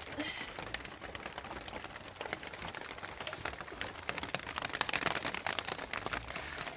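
A rapid, irregular patter of small clicks and taps, a little denser about two-thirds of the way through.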